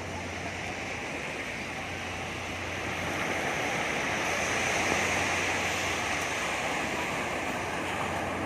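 Sea surf rushing onto a beach, the wash swelling about halfway through and then easing a little, over a low steady hum.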